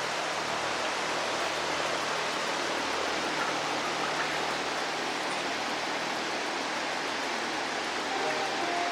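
Steady, even hiss of background noise, with no distinct events. Music comes in faintly near the end.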